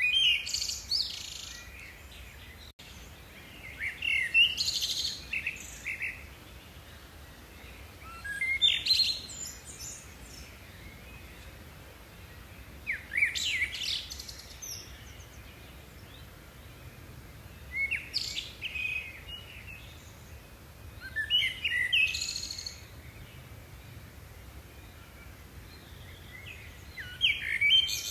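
A songbird singing, repeating a short phrase of quick high chirps and trills about every four to five seconds, seven times over, against a faint steady outdoor background.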